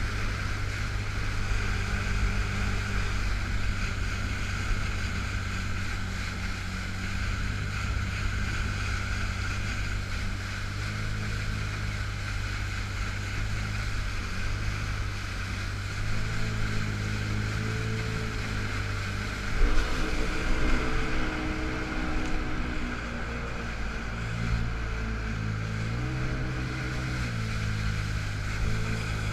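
Yamaha FX Cruiser H.O. personal watercraft running under way, its four-stroke engine holding a steady hum with rushing water and wind on the head-mounted microphone. The engine pitch shifts up and down in the second half, with a short louder burst of noise about two-thirds through. The craft is stuck in its reduced-power Lo-Mode.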